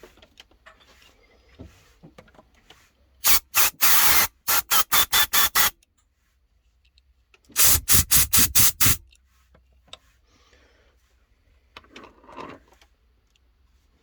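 Short blasts of air blown through the passages of a Honda Izy lawnmower's carburettor during cleaning. The hissing comes in two rounds of rapid bursts, about three seconds in and again about eight seconds in.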